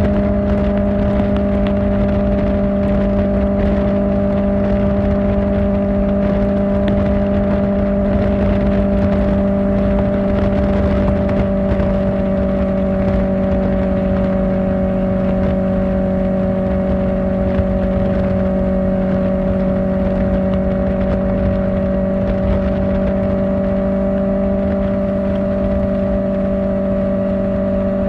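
Kawasaki Ninja ZX-4R's inline-four engine with an Akrapovic exhaust, cruising at steady revs with an even, unchanging engine note.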